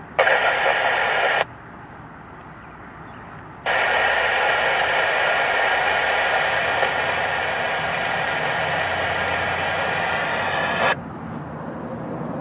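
Air-band radio scanner speaker hissing with static, a short burst and then a longer stretch of about seven seconds, each switching on and cutting off abruptly: the squelch opening on a transmission that carries no clear voice.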